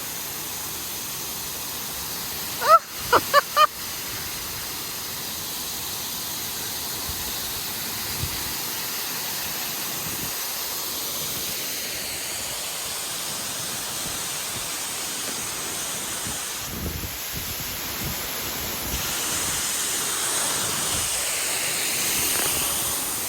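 Steady rush of falling water from the indoor rainforest waterfall, swelling slightly near the end. A few short voice exclamations come about three seconds in.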